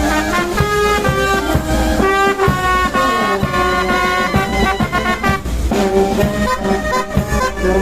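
Brass band music: trumpets and trombones playing held chords over a steady beat.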